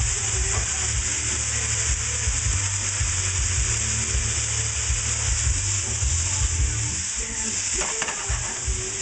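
Chicken frying in hot oil in a pan, a steady sizzle heard close up.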